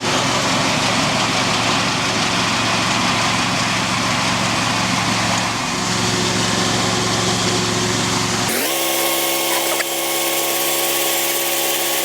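Engine running steadily with a wide hiss over its hum. About eight and a half seconds in the sound changes abruptly: the low hum drops out and a set of steady higher tones carries on.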